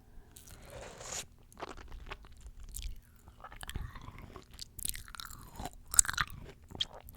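Close-miked chewing of fresh fruit: wet crunching and sticky mouth clicks, with one sharp crunch about six seconds in.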